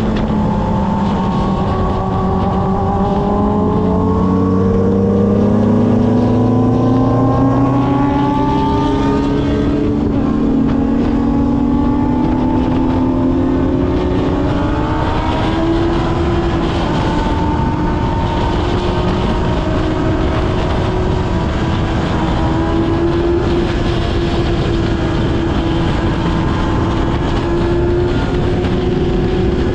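Kawasaki ZX-6R's inline-four engine running under way, its pitch climbing slowly and steadily for about the first fifteen seconds, then holding a fairly even cruising note with small rises and dips.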